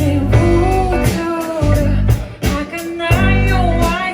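Live band playing a song: a singer over guitar, bass guitar and a steady drum beat.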